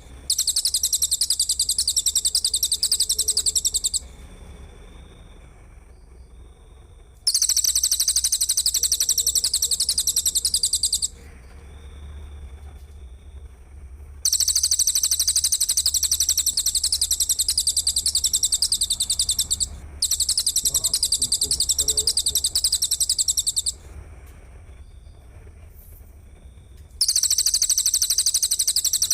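Songbird-training masteran track: a fast, high-pitched trill repeated in about five runs of three to five seconds each, with short pauses between them.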